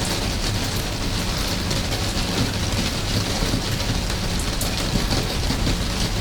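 Steady rain falling: an even hiss with many small drops ticking through it and a low rumble underneath.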